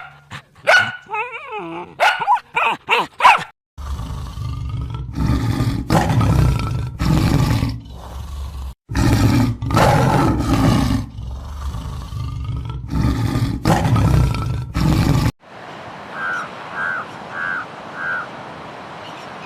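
Animal calls from several clips in turn: short calls at first, then a run of loud, rough, low calls, each about half a second to a second long. After a sudden cut, four short, even chirps sound over a faint hiss near the end.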